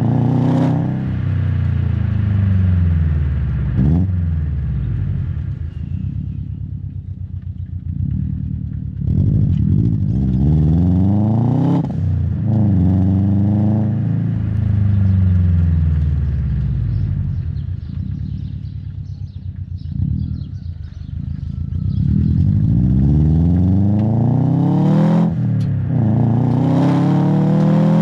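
Exhaust of a Subaru WRX STI's EJ257 turbocharged 2.5-litre flat-four, heard close to the tailpipe, pulling hard with revs climbing several times, each climb ending in a sudden drop at a gear change. Between pulls the revs fall away slowly over several seconds as the car slows.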